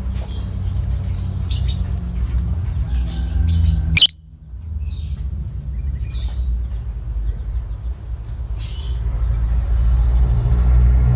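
Lovebird giving short chirps about once a second, over a steady low rumble and a constant high whine. A sharp click about four seconds in, after which the sound briefly drops.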